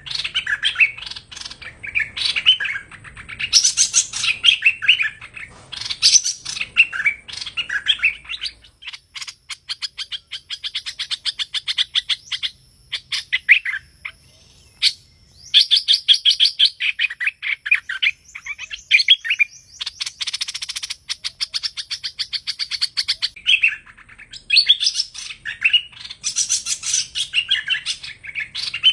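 A hoành hoạch songbird singing bursts of quick chattering, warbling phrases. About nine seconds in the song changes to a long run of rapid, evenly repeated notes lasting about ten seconds, then the chattering phrases return.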